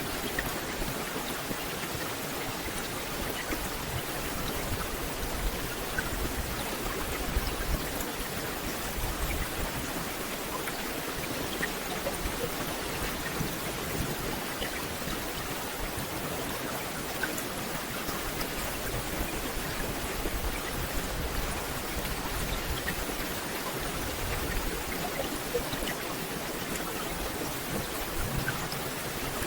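Steady rain falling on foliage, an even hiss dotted with the small taps of individual drops.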